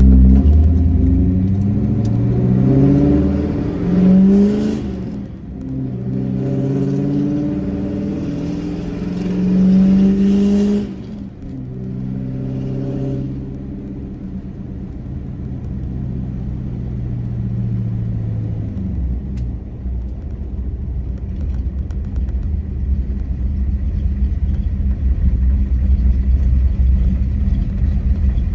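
Pickup truck's engine accelerating: the pitch rises and drops twice in the first ten seconds or so, as the truck shifts up through the gears. It then settles into a steady low rumble.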